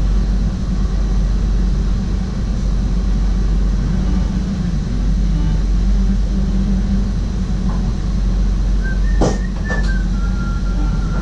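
SGM Sprinter electric train running along the track, heard from the driver's cab: a steady low rumble. About nine seconds in come two sharp clicks and a few brief high whistling tones.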